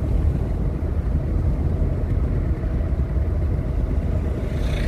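Steady road and engine rumble heard from inside a moving vehicle's cabin. A rising hiss starts near the end.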